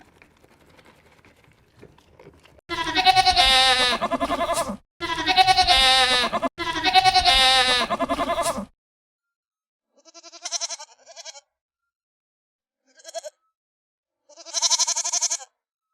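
Goats bleating: three long, wavering bleats back to back, then after a pause a few shorter bleats near the end.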